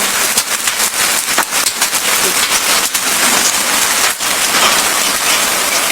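Heavy rain mixed with hail: a loud, dense hiss of downpour with many sharp strikes of hailstones hitting surfaces.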